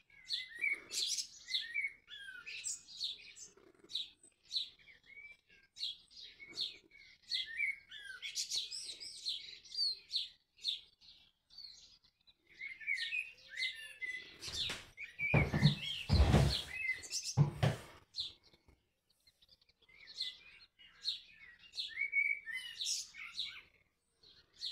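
Birds chirping over and over, many short high calls in quick succession. A cluster of loud bumps comes about fifteen to eighteen seconds in.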